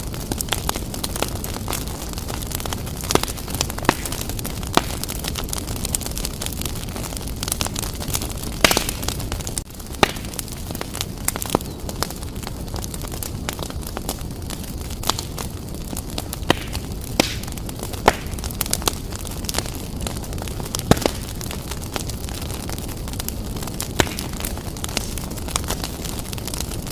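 Wood fire burning vigorously in a fireplace: a steady low roar of flames with frequent sharp crackles and pops from the burning wood.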